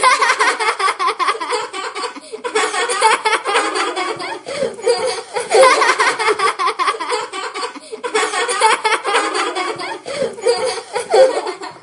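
Several people laughing continuously, with a few short breaks, starting and stopping abruptly.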